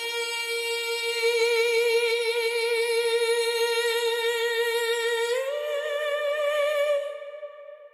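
A single sung voice holding a long wordless note with vibrato, stepping up to a higher note about five seconds in, then fading out near the end.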